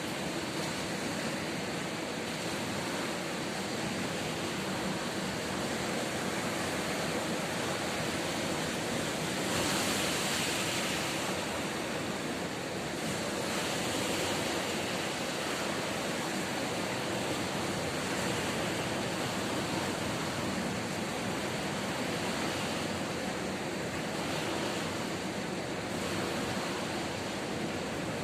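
Ocean surf washing steadily on the shore, with a louder surge about ten seconds in.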